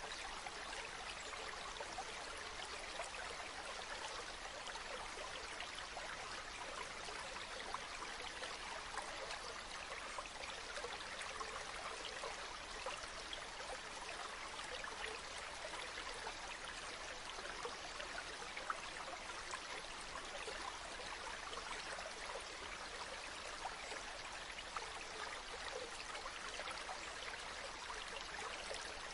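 Steady running water, an even, unbroken rush with no change through the stretch.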